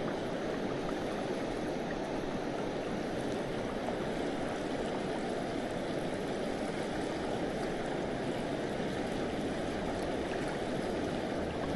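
Steady rush of river water flowing over stones, an even unbroken sound.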